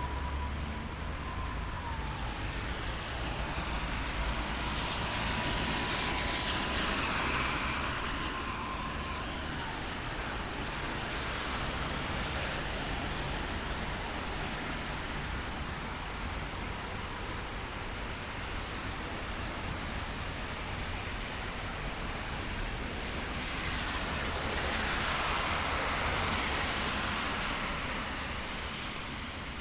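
Street traffic on a wet road in the rain: steady hiss of rain and tyres, with two cars passing about six seconds in and again near the end, their tyre hiss swelling and fading. A thin steady tone sounds during the first several seconds.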